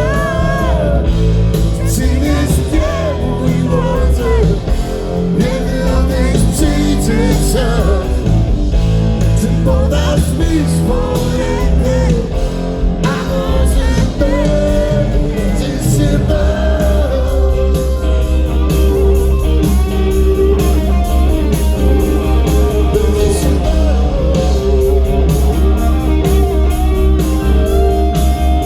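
Blues-rock band playing live: heavy bass and drums under electric guitar and a singing voice, the guitar coming forward with long held, bending notes from a little past halfway.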